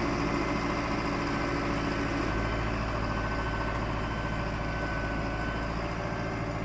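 Tractor engine running steadily at an even speed, a deep hum that does not rev up or down.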